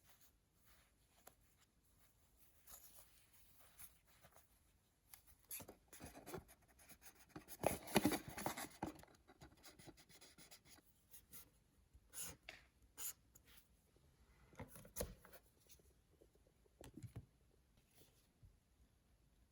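Blind-bag packaging and small toys being handled: faint scattered taps and light scratchy rustles, with a louder stretch of rustling about eight seconds in and a few sharper taps after it.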